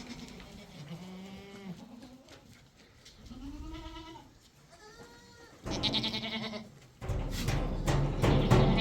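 Sheep bleating several times, in separate calls that rise and fall in pitch. In the second half a loud rushing noise comes in and grows stronger toward the end.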